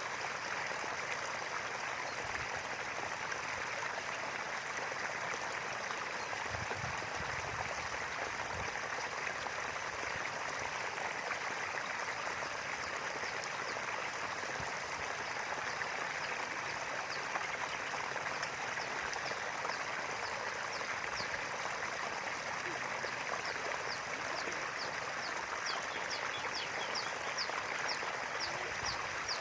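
Small river flowing steadily over its bed, a continuous rushing of water. Near the end a faint rapid ticking call, from a bird or insect, comes in above the water.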